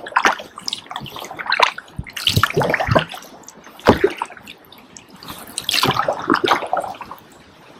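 Kayak paddle blades dipping into and lifting out of river water: a series of irregular splashes and drips.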